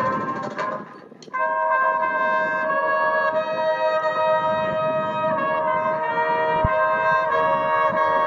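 Brass music with trumpets and trombones holding long, steady chords. The music swells in about a second in, after a brief dip.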